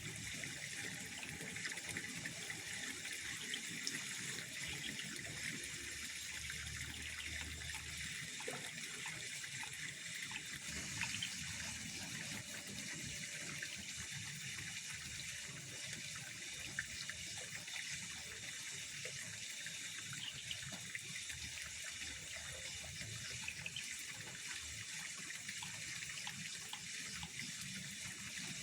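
Water trickling steadily at a pond, a soft even running sound with small drips and splashes.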